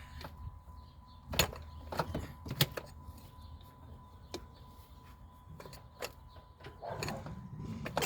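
Scattered sharp clicks and knocks of tools and metal parts being handled during car repair work, a few seconds apart, over a low steady hum and a faint steady high tone.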